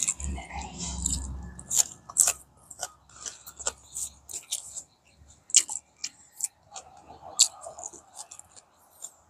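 Close-up eating sounds: a person chewing mouthfuls of food, with irregular sharp crunches and wet mouth clicks.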